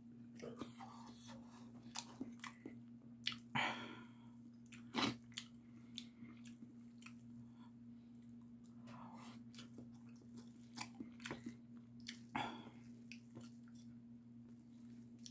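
A person eating Paldo Bibimmyeon, spicy mixed noodles, close to the microphone: wet, irregular chewing clicks, with about three louder, longer mouth sounds among them. A steady low hum sits underneath.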